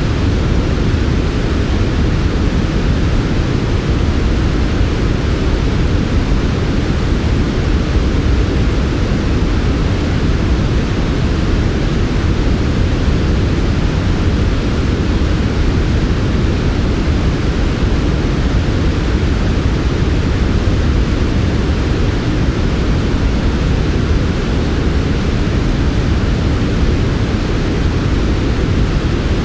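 Steady, unchanging white noise, a fuller low rush under a softer hiss, with no other sounds.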